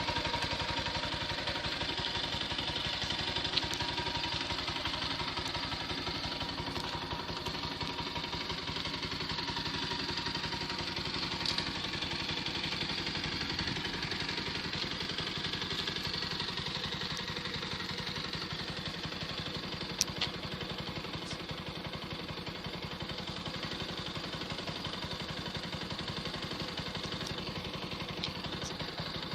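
Bajaj Pulsar AS200's 199.5 cc single-cylinder engine idling steadily through its exhaust, with a few brief clicks.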